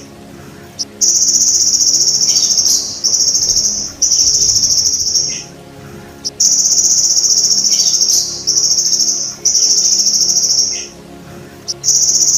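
Belalang emas (golden grasshopper) stridulating: high, buzzing trills about one to two seconds long, about five of them, each followed by a short pause. A faint steady low hum runs underneath.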